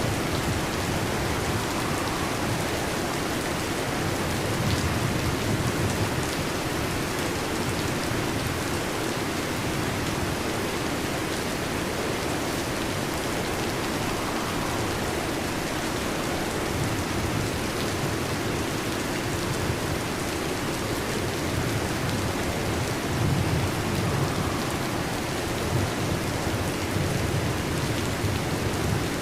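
Steady heavy rain with low thunder rumbling, swelling and fading several times.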